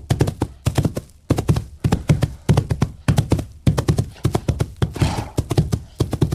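White rhinoceros grazing: grass being cropped and chewed in quick, irregular series of crunching, tearing strokes.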